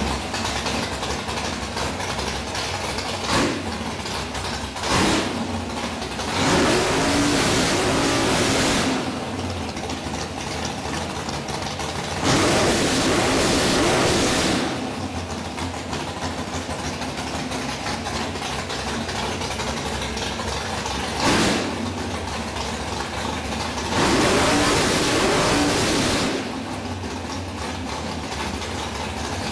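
427 Windsor small-block Ford V8 running on open exhaust with no mufflers, idling between revs. It is blipped briefly about 3, 5 and 21 seconds in and held at higher revs for two or three seconds at a time around 7, 13 and 25 seconds in.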